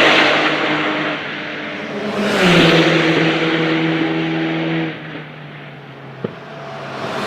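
Porsche 911 GT3 Cup race cars' flat-six engines at full throttle going past one after another, each note dropping in pitch as the car passes and then fading: one car just past at the start, a second passing about two and a half seconds in and dying away near five seconds, and the next approaching at the end. A single sharp crack sounds about six seconds in.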